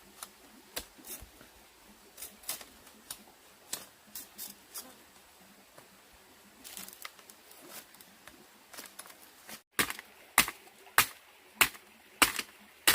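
Sharp knocks of a hand tool at work: light, irregular taps for most of the time, then from about ten seconds in a steady run of harder strikes, a little under two a second.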